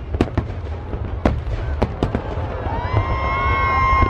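Fireworks display: a rapid, irregular run of sharp bangs and crackles over a steady low rumble. Near the end a high whistling tone rises and holds for about a second.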